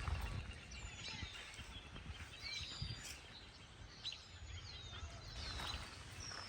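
Several small birds chirping and calling in short, quick whistles and chirps, over a low rumbling outdoor background noise.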